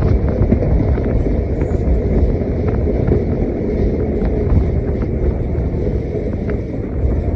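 Steady low rumble of a diesel-hauled train at the station, with a few faint clicks.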